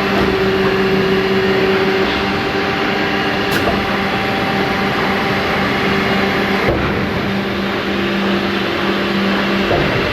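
Cylinder honing machine running steadily on an engine block: a constant hum under a dense hiss.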